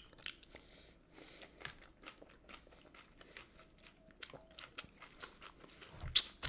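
A person chewing and biting crunchy fried food close to the microphone: a run of irregular small crunches, with a louder bite about six seconds in.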